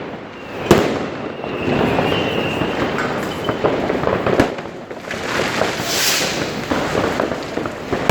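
New Year's Eve fireworks and firecrackers going off all around in a constant crackle, with a sharp bang about a second in and another about halfway through. A thin whistle sounds early on, and a hissing burst comes near the end.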